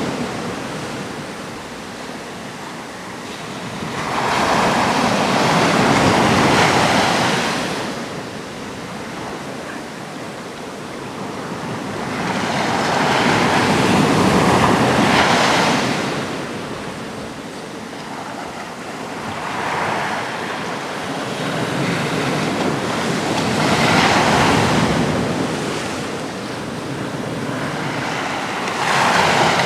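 Sea waves breaking on a rocky Atlantic shore, the surf swelling and falling back in long surges every eight seconds or so, with a little wind on the microphone.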